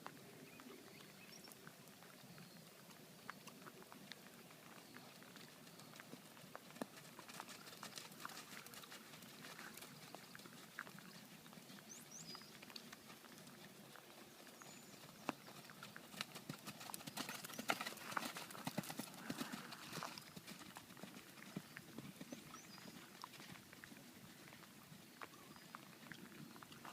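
Faint clip-clop of a horse's hooves, with the hoofbeats coming thickest and loudest about two-thirds of the way through.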